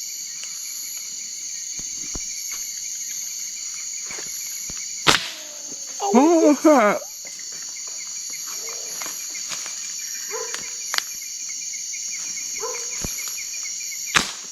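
A night insect chorus trilling steadily in several shrill layers. It is broken by a sharp snap about five seconds in and another near the end.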